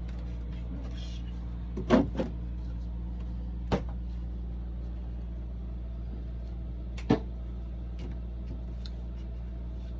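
Knocks and clunks from shower drain hoses and pipes being pulled and handled, over a steady low hum. There is a loud double clunk about two seconds in, then single knocks near four and seven seconds.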